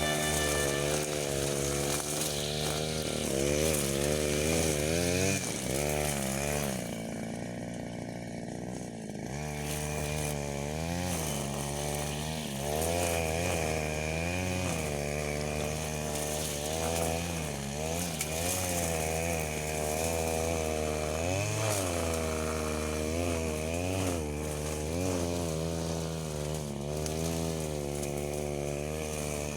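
Small petrol engine of a handheld power tool running under load, its pitch rising and falling every second or two as it is throttled and worked. It settles into a lower, steadier note for a couple of seconds about seven seconds in, then resumes the up-and-down revving.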